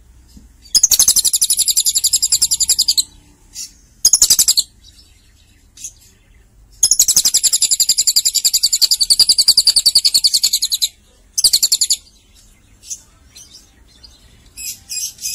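Lovebird chattering in long, fast, high-pitched trills (the 'ngekek' song). There is one trill of about two seconds, a short one, a long one of about four seconds at roughly eleven notes a second, then another short one. A few short chirps follow near the end.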